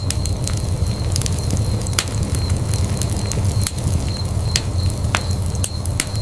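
Wood fire burning in a fireplace: a steady low rumble of flames with irregular sharp crackles and pops from the burning logs, several a second, a few louder than the rest.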